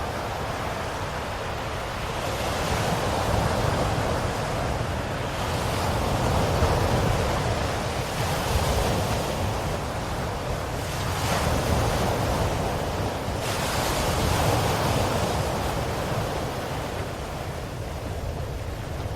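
Ocean waves breaking and washing on the shore, the surf swelling and easing in slow surges every few seconds.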